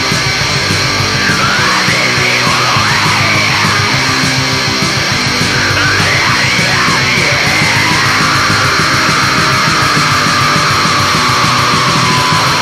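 Heavy metal song played on distorted guitars and bass. A high lead line bends up and down in pitch, then settles into longer held notes about two-thirds of the way through.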